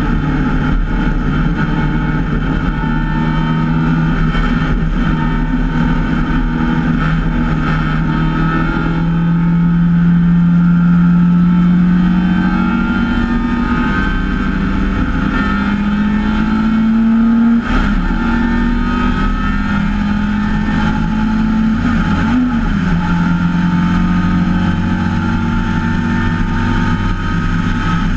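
MGA race car's four-cylinder engine running hard at racing speed, heard from the open cockpit. Its pitch climbs slowly through the middle, with a brief break a little past halfway and a short wobble later.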